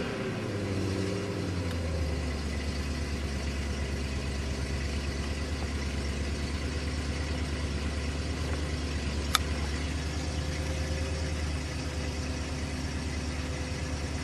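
BMW engine just started, its revs falling over the first couple of seconds from the start-up flare to a steady idle. There is a single sharp tick about nine seconds in.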